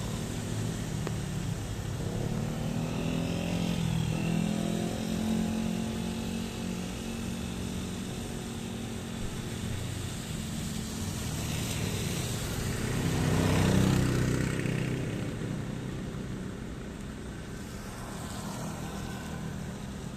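Steady rain with two motor vehicles driving past, one a few seconds in and a louder, closer one about fourteen seconds in. The engine pitch drops as each goes by, with tyre hiss swelling on the second pass.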